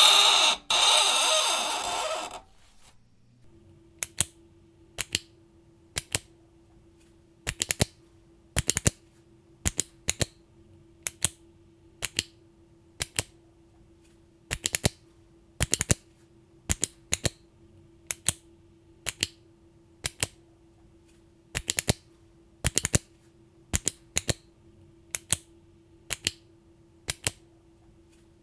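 A loud harsh noise cuts off about two seconds in. Then come sharp clicks, about one a second and often in quick pairs, over a faint steady hum.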